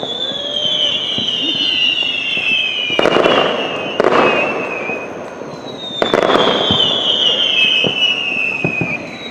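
Fireworks going off: long whistling tones that slowly fall in pitch, broken by sharp bangs about three, four and six seconds in.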